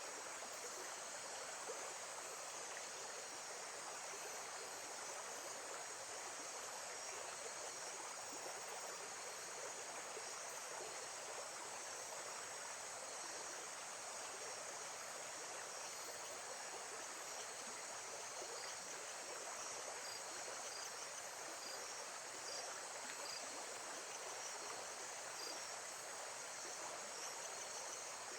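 Steady rush of running water at a lakeside, with insects chirping in short high-pitched pulses throughout.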